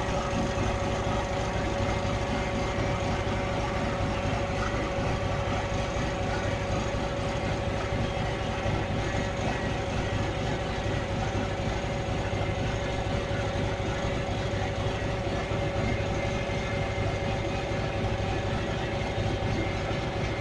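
Scania 112 truck's 11-litre straight-six diesel idling steadily, with its hydraulic pump switched on and running.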